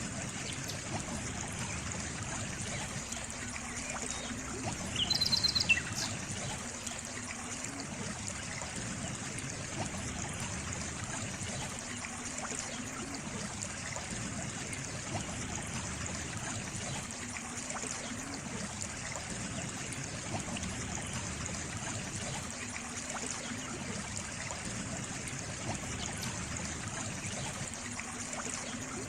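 Steady trickling and flowing water of a small stream. About five seconds in comes a brief high-pitched call of a few short notes.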